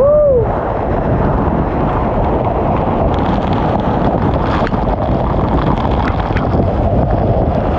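Waterfall pouring down hard right on top of the microphone: a loud, steady, dense rush of falling water. A person gives a short whoop at the very start.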